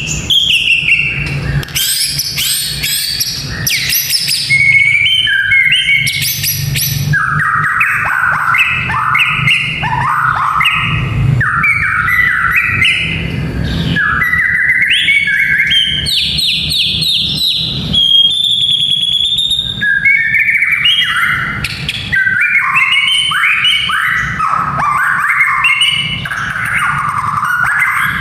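White-rumped shama singing a continuous, varied song of fast repeated whistled notes and trills that jump between pitches, over a low steady hum.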